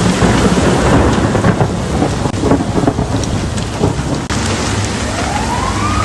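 Heavy rain in a thunderstorm, a loud, dense hiss with low rumbling underneath. A rising whine starts near the end.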